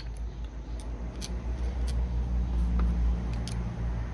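A few light metallic clicks as an engine part is test-fitted onto its dowel pins, over a steady low hum.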